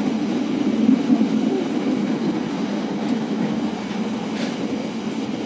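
Steady low rumble of a moving economy-class passenger train coach, wheels running on the rails, heard from inside the carriage.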